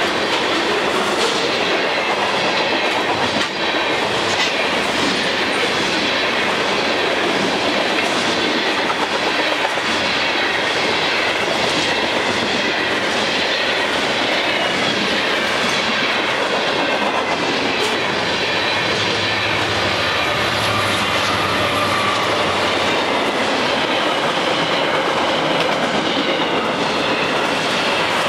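A freight train's tank cars, covered hoppers and container flatcars rolling past at track speed. Steel wheels rumble steadily on the rail with a regular clickety-clack of wheelsets going by.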